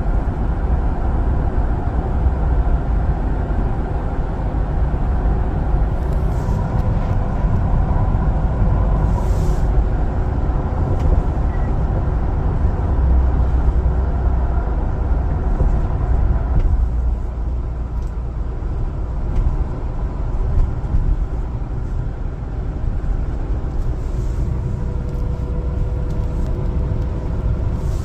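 An LPG-fuelled one-ton cargo truck driving on the road: a steady engine and road rumble that eases and gets a little quieter a little past halfway.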